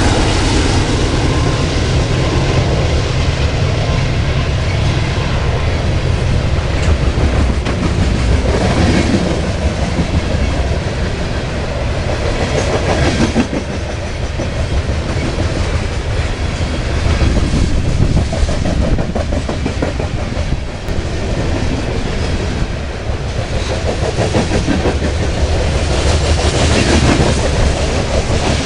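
HO scale model train running on the layout track, its wheels clicking over the rail joints over a continuous rumble.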